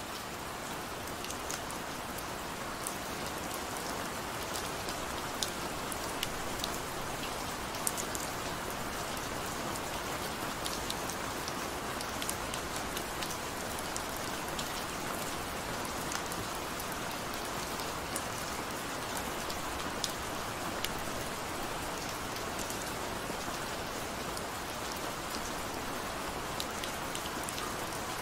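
Steady gentle rain: an even hiss of falling water with scattered sharper drop hits throughout.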